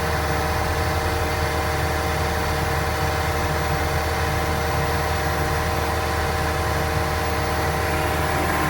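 Venieri 10.33C backhoe loader's four-cylinder Deutz diesel running steadily with the snowblower attachment engaged, with a constant drone and a steady whine of several tones.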